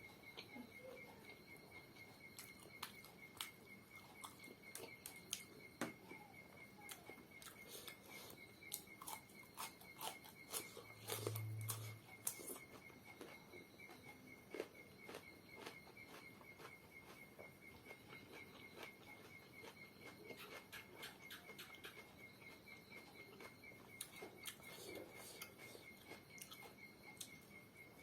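Quiet eating sounds: scattered small clicks and smacks of chewing and handling food, over a steady high chirping of insects.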